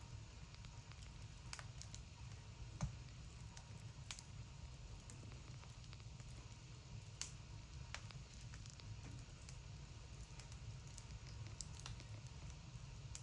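Wood fire burning in a wood stove: faint crackling with scattered sharp pops, one louder about three seconds in, over a low steady rumble.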